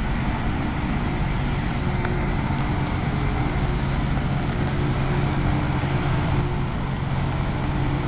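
Loram rail grinder running: a steady diesel engine drone under an even, broad hiss.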